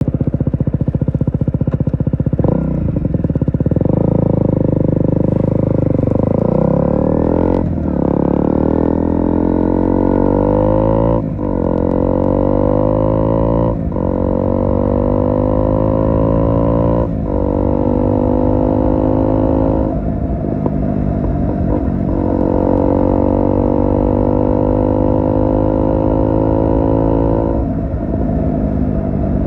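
KTM Duke 125's single-cylinder four-stroke engine through an IXIL IXRACE MK2 aftermarket exhaust, pulling through the gears. The pitch climbs steadily, then dips briefly at each upshift, about eight times, with the later gears rising more slowly.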